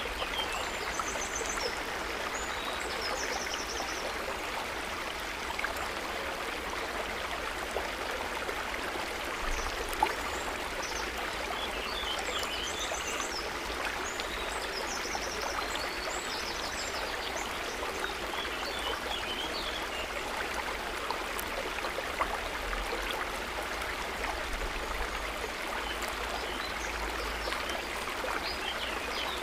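Water trickling and running gently in a steady hiss, with brief high chirping calls from small animals now and then.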